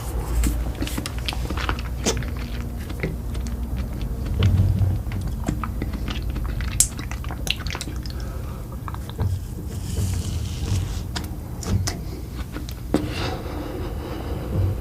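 Close-miked eating: a person chewing and biting food, with many small irregular crackles and mouth clicks over a low steady rumble.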